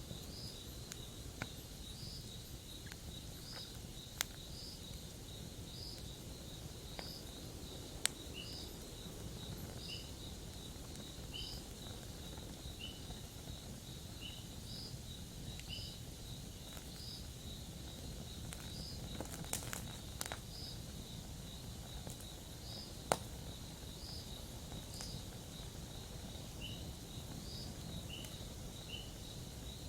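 Campfire crackling with a few sharp pops, the loudest about eight seconds in and near the end, over crickets chirping in a steady, regular rhythm against a continuous high trill.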